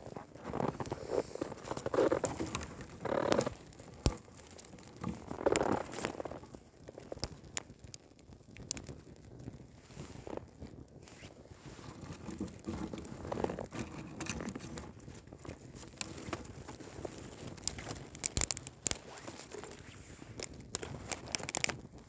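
Wood campfire crackling, with sharp pops scattered irregularly throughout and louder spells of rustling and crunching near the start, around five seconds in and around thirteen seconds.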